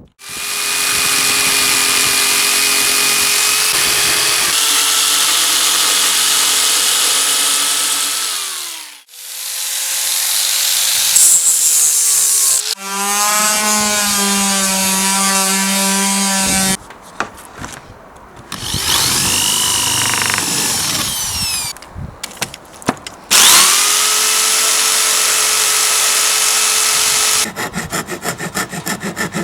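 An electric power tool working wood in several passes, its motor running steadily, then winding down and spinning up again between them. Near the end a fast, even rhythm of short strokes takes over.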